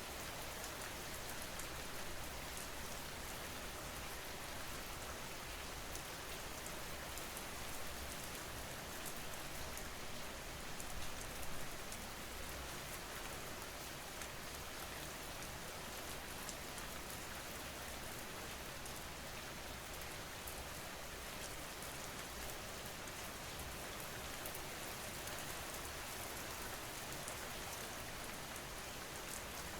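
Steady rain, a dense patter of drops on a surface, with a slight swell in loudness about eleven seconds in.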